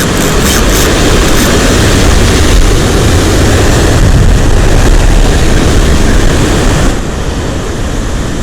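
Loud, steady rumbling roar of surf and wind on the microphone, easing a little about seven seconds in.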